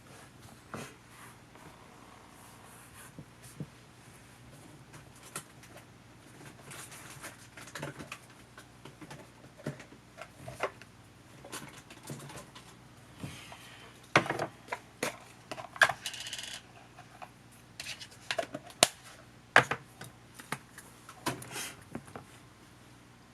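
Irregular small clicks and taps of hand tools and plastic parts being handled while a camcorder is taken apart, with a short scraping stretch about midway.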